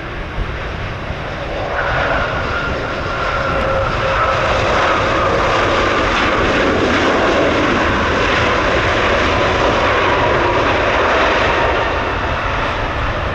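Jet airliner's engines passing close by, their whine slowly falling in pitch as the aircraft goes past over a steady low rumble, loudest through the middle and fading near the end.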